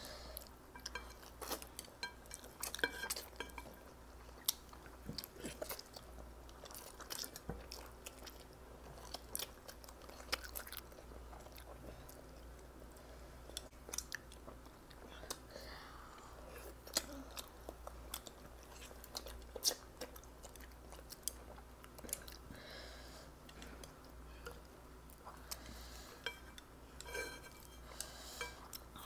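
Close-up chewing and biting of instant Mi Goreng noodles and Spam, a stream of small wet mouth clicks, with wooden chopsticks now and then clicking against a glass bowl.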